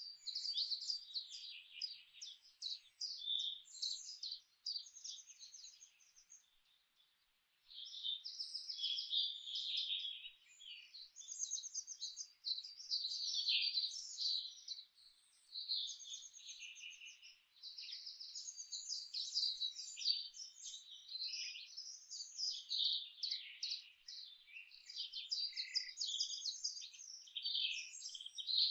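Birdsong: many quick, high chirps and trills overlapping almost without pause, with a brief lull about six seconds in.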